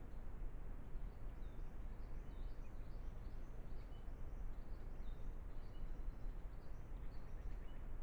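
Steady hiss of a trail camera's microphone, with faint, high chirps of small birds scattered through it.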